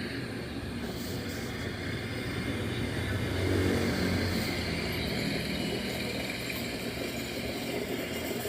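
Strong easterly wind rushing and buffeting the microphone, swelling in a gust about three to four seconds in.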